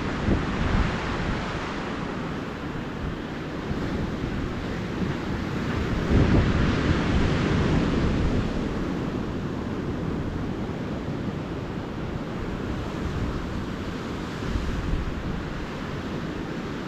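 Ocean surf washing steadily onto the beach, with wind rumbling on the microphone and a louder swell of rumble about six seconds in.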